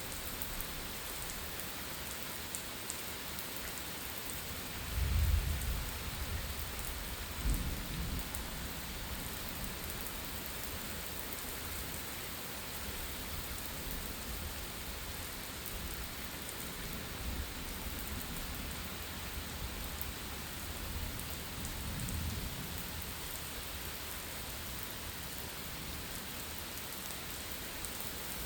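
Steady rain of a thunderstorm falling, with a low rumble of thunder about five seconds in, a shorter one soon after, and a fainter rumble later.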